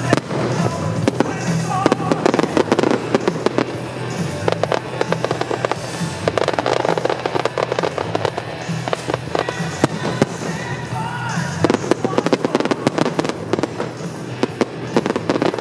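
Fireworks going off in a dense, rapid run of crackles and bangs, with music playing along underneath.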